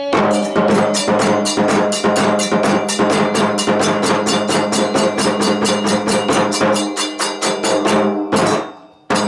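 Kagura accompaniment: drums struck in a fast, even beat of about five strikes a second over a ringing sustained tone. Near the end it thins to a few separate strikes.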